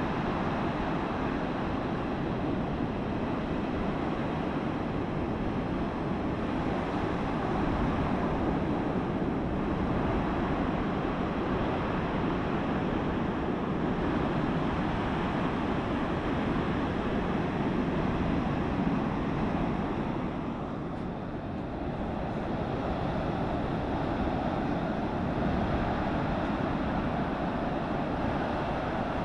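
Ocean surf breaking and washing on the beach: a steady rushing noise that eases briefly about two-thirds of the way through.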